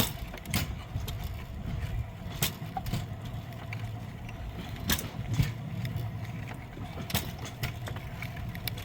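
Steel wheels of a pedal-powered rail bike rolling along old railway track. A steady low rumble is broken by sharp metallic clicks every second or two.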